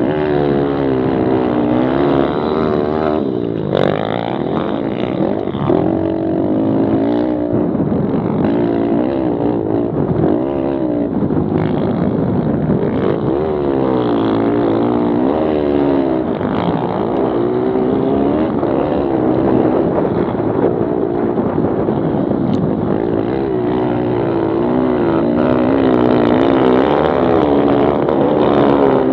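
Several Kawasaki KLX110 pit bikes racing, their small four-stroke single-cylinder engines revving up and dropping back over and over as the riders shift and brake for corners, with overlapping engine notes.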